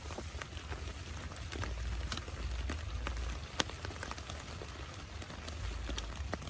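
Steady rain with many heavy drops striking in irregular sharp ticks, over a low rumble.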